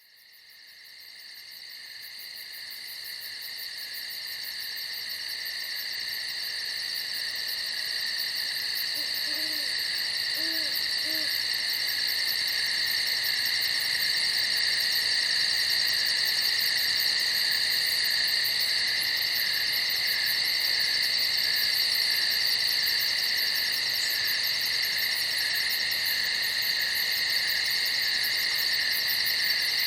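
Night chorus of crickets, a dense steady high-pitched trilling that fades in from silence over the first ten seconds or so. A few faint, short low calls come through about nine to eleven seconds in.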